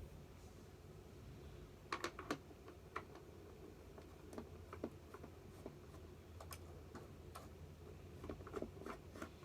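Light, irregular clicks and taps of plastic vacuum-cleaner housing parts and screws being handled during disassembly, over a faint low hum.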